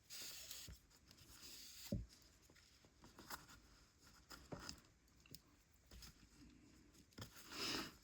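Faint handling sounds of yarn and a needle being worked through a crocheted piece: soft scattered rustles and small knocks, with a louder rustle near the end.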